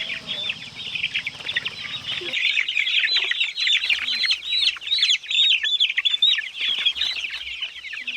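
A brood of young chicks peeping continuously, many high chirps overlapping at once.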